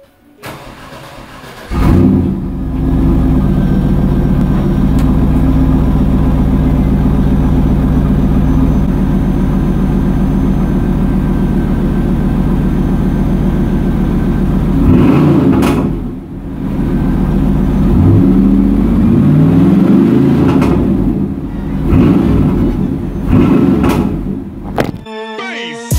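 Starter cranking on a 1996 Pontiac Firebird WS6's 5.7-litre LT1 V8, the engine catching about two seconds in and settling into a steady idle. In the second half it is revved several times, the pitch rising and falling. The sound cuts off suddenly near the end.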